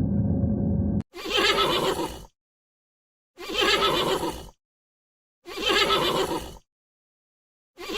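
Horse whinnying, the same call heard three times about two seconds apart, with a fourth cut off short. A steady low rumble before it stops abruptly about a second in.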